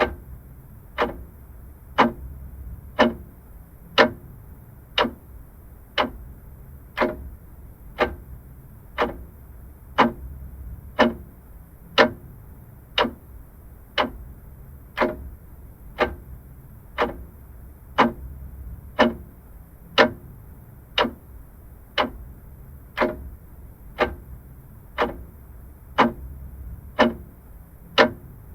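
Vintage mechanical clock ticking steadily at about one tick a second.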